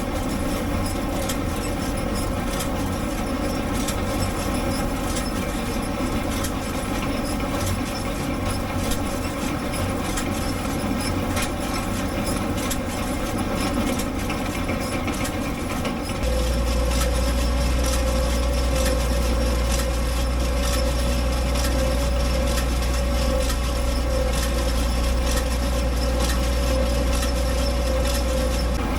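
International Harvester 706 tractor running while it pulls and powers a John Deere 510 round baler, with a steady engine hum and fine clattering. About halfway through, the hum grows louder and deeper and a steady whine joins it.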